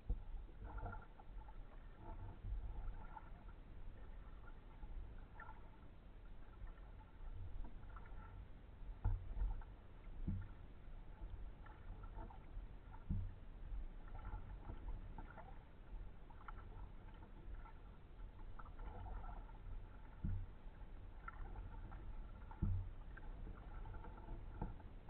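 Kayak paddling: paddle blades dipping and dripping in the water, with a few sharp low knocks spaced through the stretch.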